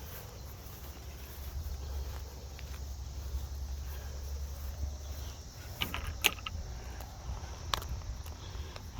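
Quiet outdoor background: a steady low rumble with faint insect chirring, broken by a few short sharp clicks about six seconds in and again near the end.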